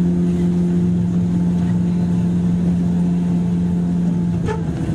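Running sound of a 103-series electric train heard inside its motor car: a steady traction motor and gear drone that drops slightly in pitch near the end, with one sharp click about four and a half seconds in.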